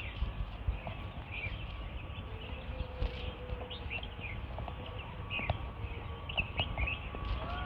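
Small birds chirping in short, repeated calls, over the irregular knock and rumble of footsteps while walking.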